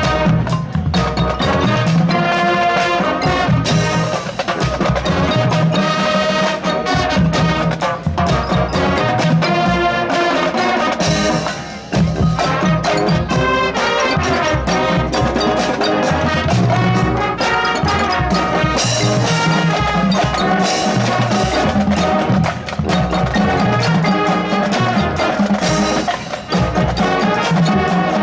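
High school band playing: brass over drums and mallet percussion, with a brief break about twelve seconds in.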